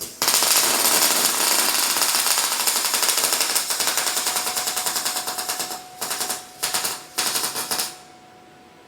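Robotic arc welding: the welding arc crackles loudly and continuously for about five and a half seconds, then strikes again in three short bursts before stopping near the end.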